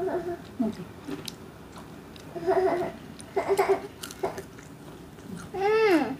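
Crunchy fried chicken being bitten and chewed, with small crisp clicks throughout. A child's voice makes a few short vocal sounds in the middle and one long falling note near the end, the loudest sound here.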